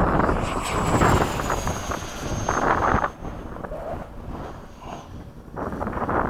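Electric ducted fan of a Freewing 80mm F-5 RC jet (12-blade fan, inrunner motor) passing by. Its thin high whine glides down in pitch and fades, over wind buffeting the microphone that eases off midway and picks up again near the end.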